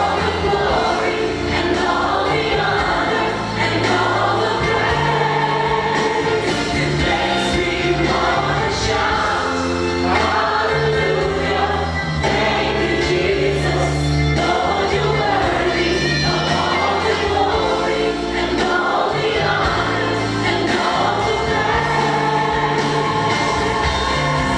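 Gospel worship music: a choir singing over a full band with a steady bass and beat.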